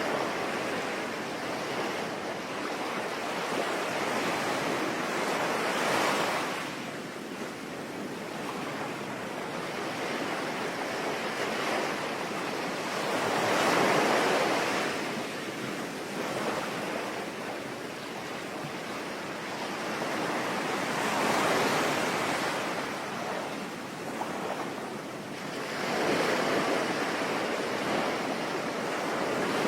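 Sea waves breaking and washing ashore, swelling and fading about every seven to eight seconds over a steady hiss of rain.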